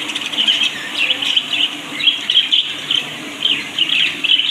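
Budgerigars chattering: a dense, unbroken run of quick high chirps from several birds.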